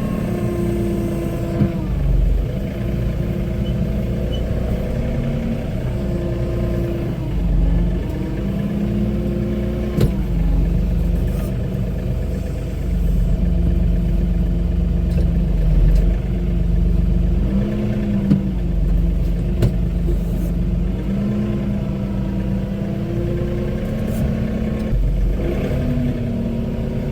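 John Deere compact tractor's diesel engine running steadily under load. Its note dips and rises again several times as it works, with a few sharp knocks.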